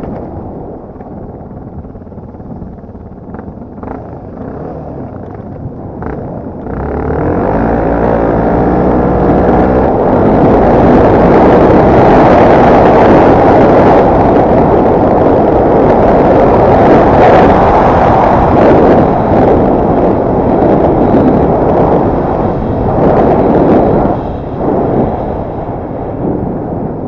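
Off-road motorcycle engine, running at lower revs with a few knocks at first, then revving up about seven seconds in and running hard at high revs under load, easing off near the end.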